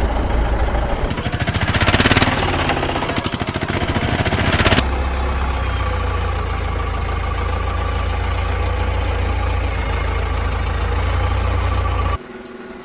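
Engine running, chugging rapidly for the first few seconds, then settling into a steady drone that cuts off suddenly near the end.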